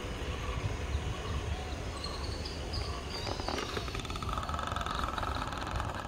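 Diesel-hauled passenger train receding into the distance, its low rumble fading into open-air background noise. A faint steady higher-pitched hum comes up about two-thirds of the way through.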